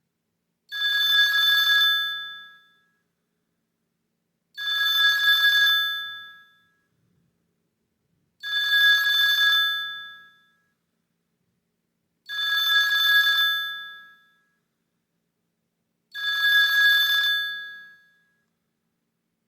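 A preloaded ringtone playing from a Sony Ericsson K750i mobile phone's speaker: a bell-like ring sounding five times, about every four seconds, each ring fading away over a second or so.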